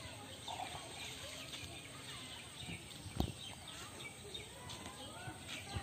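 Faint outdoor ambience with small birds chirping now and then, and one sharp tap a little over three seconds in.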